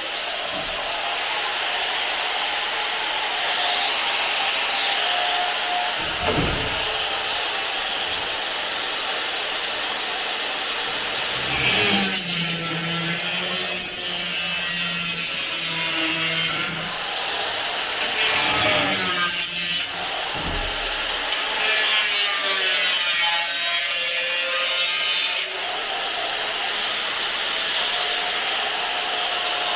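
Power tool cutting into the steel of a car's suspension top. It is a continuous loud hiss with a motor whine that shifts in pitch, easing off briefly a few times.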